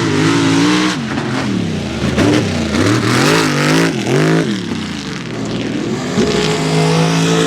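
Mega mud truck engine revving hard, its pitch rising and falling several times, then holding a steady high note near the end.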